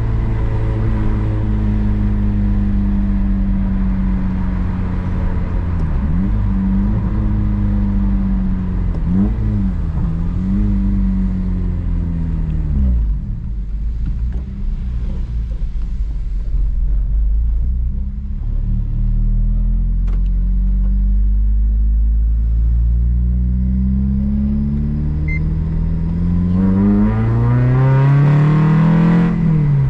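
Honda Civic Si engine and exhaust under way: the engine note holds steady with a few small rises and falls, sinks as the throttle lifts about 13 seconds in, then climbs steadily as the car accelerates near the end and drops sharply at a gear change.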